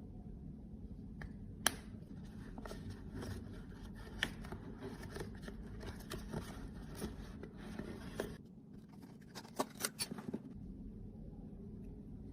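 Close-up handling noises from makeup containers and tools: scraping and crisp small clicks, with a cluster of sharp clicks about three-quarters of the way through.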